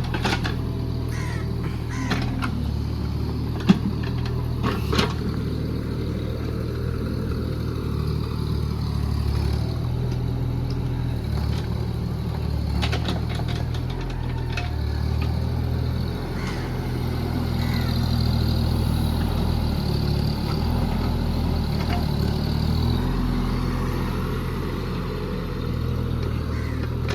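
JCB JS30 Plus mini excavator's diesel engine running steadily, its note shifting a little in the middle and near the end. A few sharp knocks and clanks come in the first five seconds, the loudest about four seconds in.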